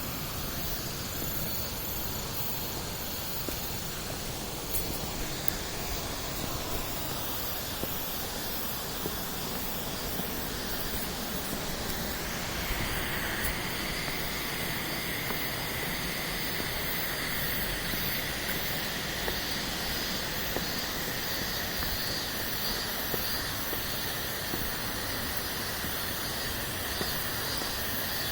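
Minoh Falls, a tall waterfall, rushing steadily. About halfway through, a steady high-pitched hiss joins it.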